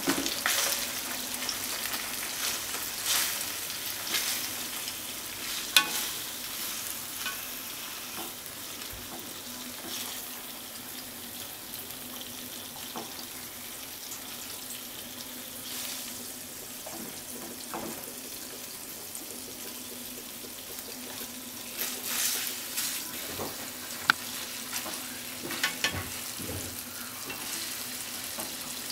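Starch-coated tofu cubes sizzling as they fry in a nonstick frying pan, a steady hiss that swells near the start and again late on. A few sharp clicks of chopsticks against the pan as the pieces are turned.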